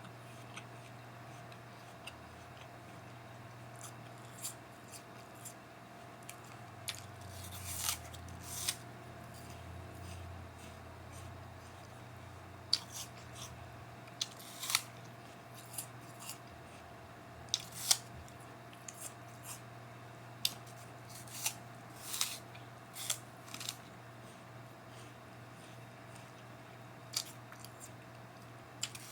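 A person eating a raw apple: irregular crisp crunches and clicks of biting and chewing, some louder than others, over a steady low electrical hum.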